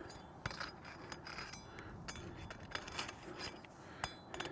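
Faint scraping and scattered light clicks of stiff, old asphalt shingles being handled and lifted.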